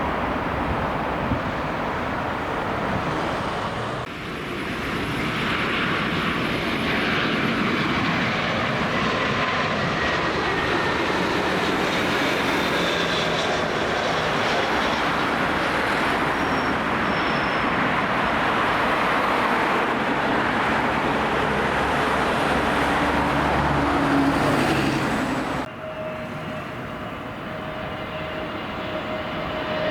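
Jet airliner engines running loud, a steady dense roar with a faint whine above it. The sound changes abruptly about four seconds in and again near the end, where a steady tone and rising whines come in.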